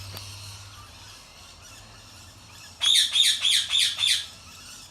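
A bird squawking: about six quick, loud, downward-sweeping calls in a row, starting just before the middle and stopping about a second later.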